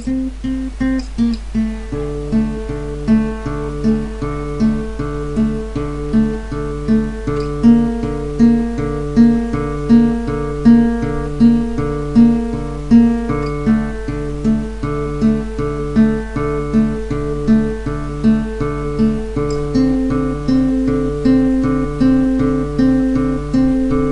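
Music: the instrumental intro of a song, acoustic guitar playing a repeating pattern with a regular beat over a steady low drone.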